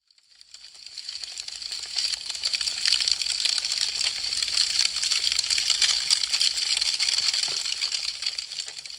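Wood fire crackling: a dense stream of small sharp crackles and pops from burning branches. It swells up from silence over the first two seconds and begins to fade near the end.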